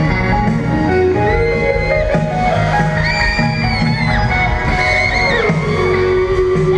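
Live band music with guitar, played loud through a concert sound system with no vocals, the crowd faintly underneath.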